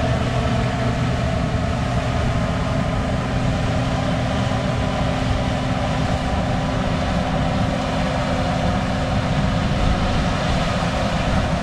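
Heavy diesel farm machinery engine running steadily with an even hum, sounding healthy.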